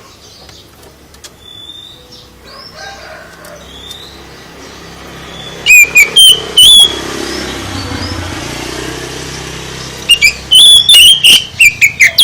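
A songbird singing: faint chirps at first, then loud whistled phrases in two bursts, about halfway through and again near the end. A low rumble swells and fades between the bursts.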